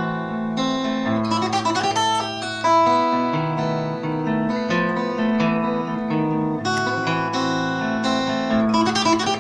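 Classical guitar played solo and fingerpicked: a run of quick melody notes over ringing bass notes, a single passage worked through on its own as practice.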